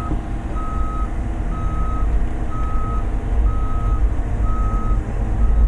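Excavator's motion alarm beeping about once a second in a single steady tone, over the low rumble of its engine.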